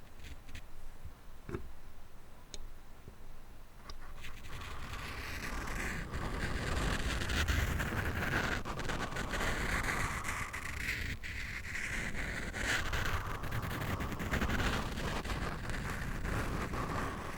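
Scratching and scraping directly on a microphone's head, with a few light taps or clicks early on; the scratching grows louder and busier about five seconds in.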